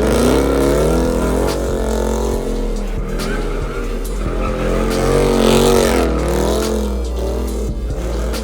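A car sliding in a drift or donut: its engine held at high revs that rise and fall over and over, with the tyres squealing and skidding.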